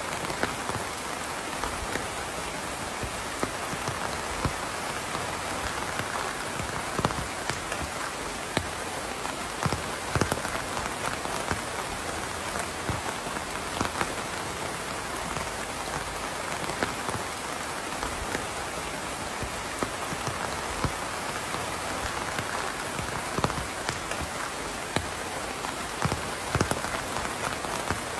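Steady rain falling, an even hiss with scattered louder individual drops tapping close by.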